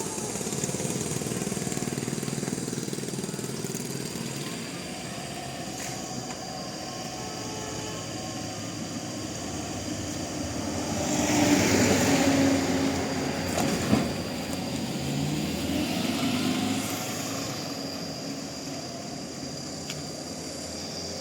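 A motor vehicle's engine running, growing louder about halfway through as it comes close and then easing off. A single sharp knock is heard soon after the loudest point.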